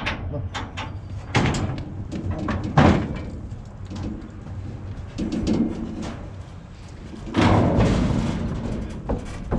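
Metal livestock trailer clanging and banging as a bull is moved between trailers, with a sharp bang about three seconds in and a longer rattling clatter near the end.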